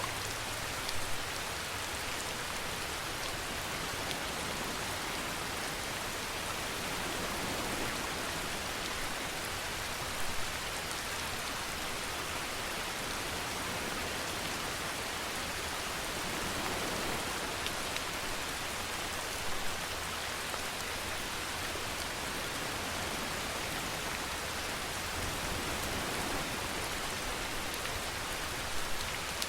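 Steady rain falling, an even hiss throughout, with a brief slightly louder patch about every nine seconds.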